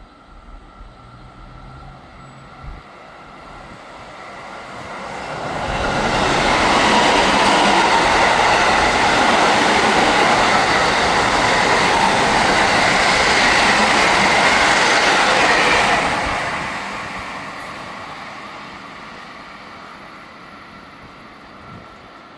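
JR West Special Rapid electric multiple-unit train passing at speed: the noise of wheels on rail swells over a few seconds, stays loud for about ten seconds, then fades away.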